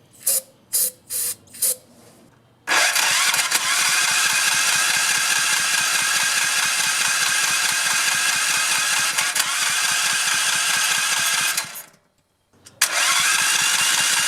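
Small four-stroke go-kart engine being started. A few short knocks come first, then about nine seconds of steady loud turning-over. It cuts out for a moment near the end and starts up again.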